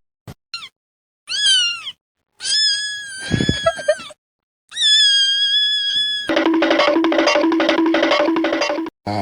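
A series of separate bird calls with clear harmonics: a short falling call, a longer call and a level call, each cut off sharply. These are followed by about three seconds of a rhythmic, music-like pulsing of about four to five beats a second.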